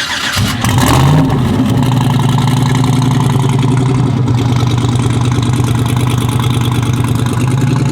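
Twin-turbo 4x4 drag truck engine coming in about half a second in with a short rev, then settling into a steady idle.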